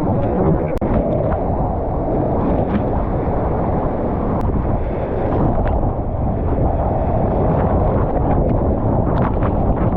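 Steady loud rush of river water mixed with wind buffeting the microphone, with scattered small clicks and splashes.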